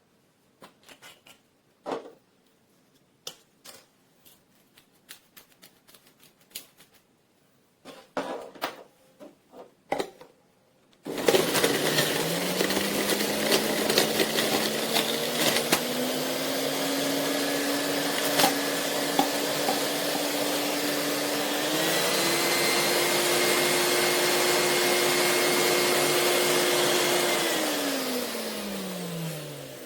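A few scattered clicks and knocks, then the motor of a JUILIST 400 W juice extractor starts about a third of the way in. It spins up with a rising whine, steps up once in pitch a little past the middle, runs steadily, and winds down near the end.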